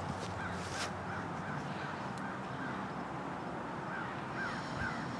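A bird calling outdoors, a quick series of short, thin rise-and-fall notes, about three or four a second, that pauses in the middle and starts again near the end, over a low steady background hum.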